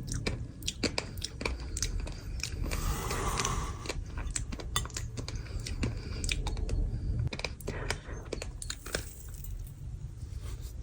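Crunchy sand chunks crackling and crumbling, with many small irregular crunches and a stretch of softer hiss about three seconds in.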